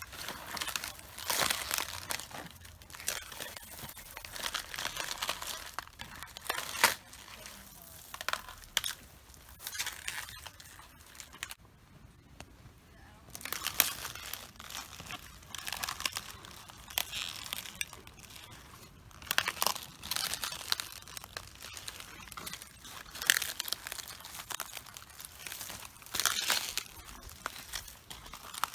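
Cabbage leaves crunching, crackling and tearing under footsteps as the heads are crushed, in irregular bursts with a short lull near the middle.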